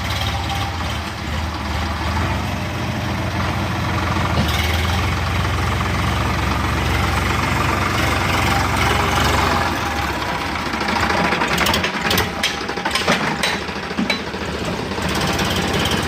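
Tractor engine running steadily for most of the stretch. In the latter part the drone drops back and a run of sharp knocks and rattles comes in.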